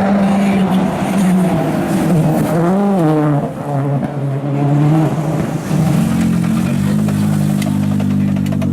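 Ford Fiesta RS WRC rally car's turbocharged 1.6-litre four-cylinder engine running. The revs hold steady, rise and fall quickly about three seconds in, then settle into a steady note again from about six seconds.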